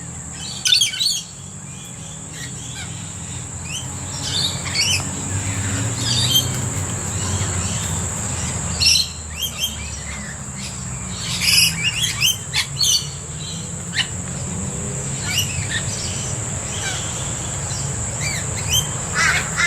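Mixed flock of rainbow lorikeets and other birds giving many short screeching and chirping calls at irregular moments, over a steady high-pitched drone.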